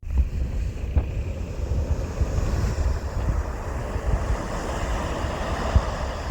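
Wind buffeting the microphone in uneven low gusts, over the steady hiss of surf washing on the beach.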